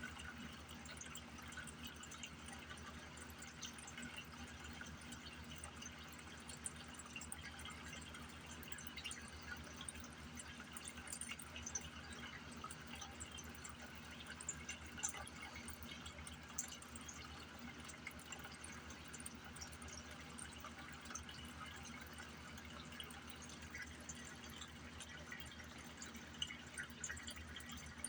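Faint, steady trickling and dripping of water with many small ticks, over a low steady hum.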